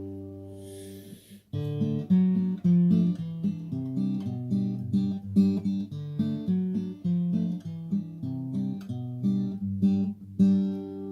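Acoustic guitar playing the song's instrumental ending: a chord rings out, then a run of picked notes starts about a second and a half in, and a last chord is struck near the end and left to ring.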